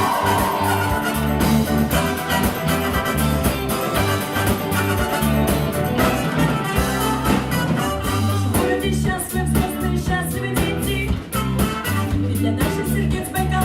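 Live rock band playing the song, with a steady bass line and beat.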